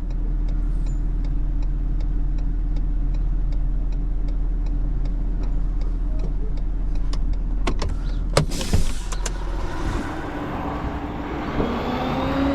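A vehicle engine running steadily, with a fast, even ticking over it, about four or five ticks a second. There are a few sharp knocks partway through, and near the end the engine note rises in pitch and holds.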